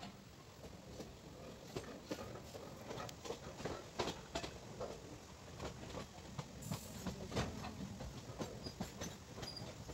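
Indian Railways express passenger train running along the track, heard from the coach: a steady rumble with wheels clicking and knocking irregularly on the rails.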